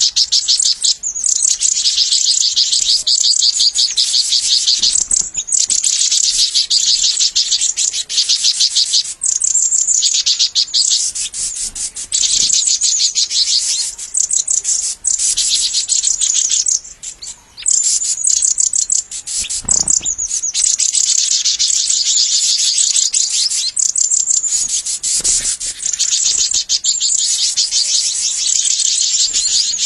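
High-pitched, rapid chirping that runs almost without pause, breaking off briefly a few times, with a few faint low thuds.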